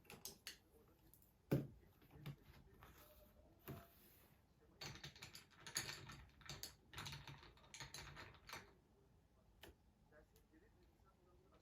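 Typing on a computer keyboard: quiet, irregular key clicks, a few scattered keystrokes and then a quick run of typing in the middle.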